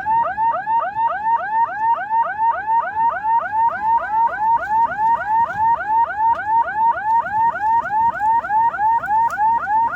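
Electronic warning alarm sounding a rapid run of short rising chirps, about four a second, without a break.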